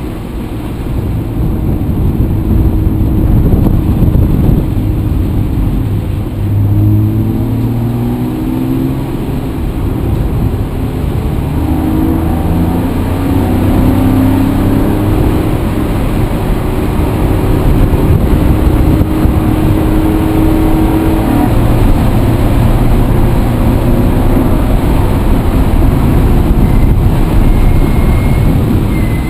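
A motor vehicle's engine runs under way over heavy low rumble. Its note rises and drops in steps several times through the middle.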